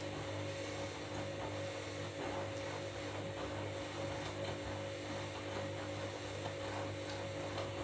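Washing machine running mid-wash with water circulating through it, a steady hum.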